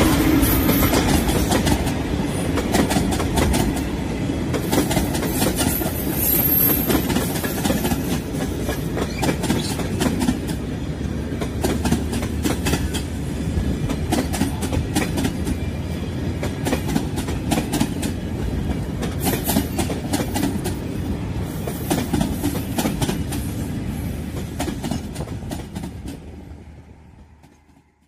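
Passenger train coaches rolling past at close range: a steady rumble of wheels on rails with a rapid clickety-clack of wheels over rail joints. It fades out near the end.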